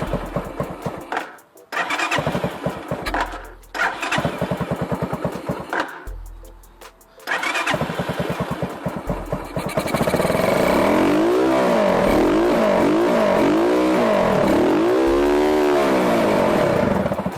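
Small mini bike engine running in short choppy spells with brief cut-outs, then revved up and down over and over, its pitch rising and falling about once a second, before it stops at the end.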